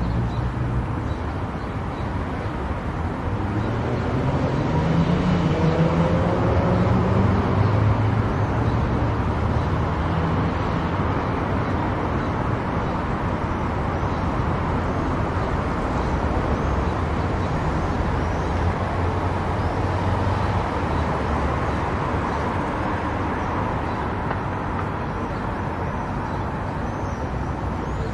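Car driving on a highway: steady tyre and road noise, with an engine hum that rises in pitch about four seconds in and then settles.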